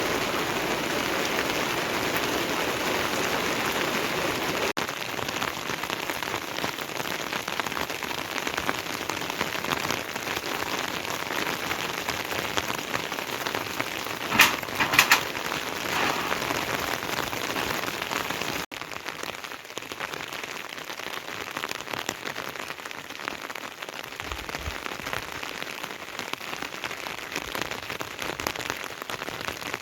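Heavy rain falling steadily on surfaces in an even hiss, with a quick cluster of sharp knocks about halfway through. The rain's loudness drops suddenly twice.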